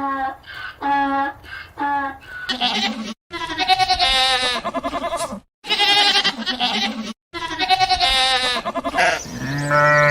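Goats bleating: a run of short, quick bleats, then long, quavering bleats, broken by abrupt cuts between clips. A deeper bleat comes near the end.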